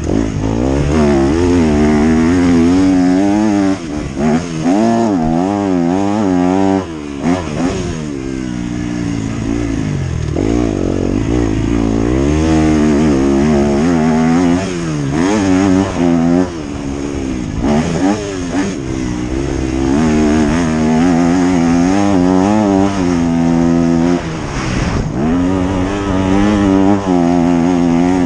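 Motocross bike engine being ridden hard. The revs climb and fall over and over as the throttle is opened and shut, with short drops every few seconds where the throttle is chopped.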